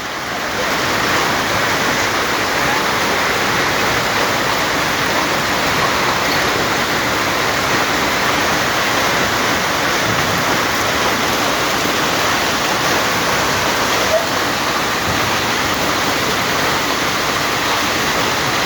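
Heavy downpour of rain mixed with hail, a steady, dense rushing that holds at the same level throughout.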